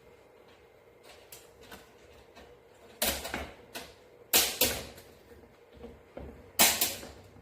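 Electric fan parts being handled and fitted together during assembly: faint scattered clicks, then several loud sharp clacks about three seconds in, twice around four and a half seconds, and once more near the end.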